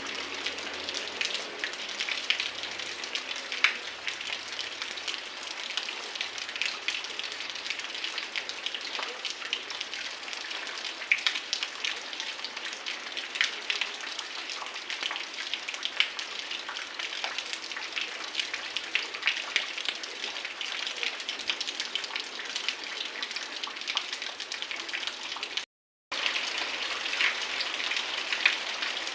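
Heavy rain falling steadily: a dense patter with many sharp individual drop hits. It cuts out completely for a split second near the end.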